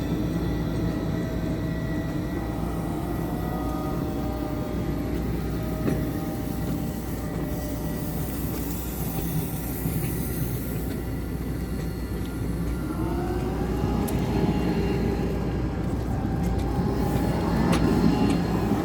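Tram's electric traction motors whining over a steady rumble. The whine drifts lower in the first part, then rises in pitch from about two-thirds of the way in as the tram accelerates.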